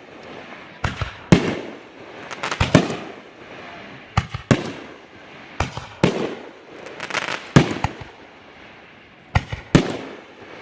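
Fireworks going off in quick succession: about a dozen sharp bangs, some in close pairs, each trailing off in echo, with a rumble between them.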